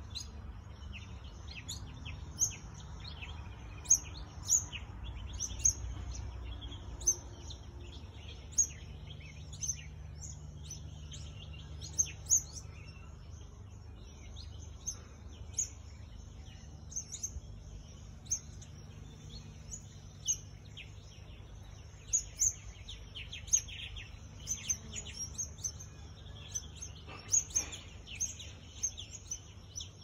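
Small birds chirping: many short, high-pitched chirps at irregular intervals, over a faint low rumble.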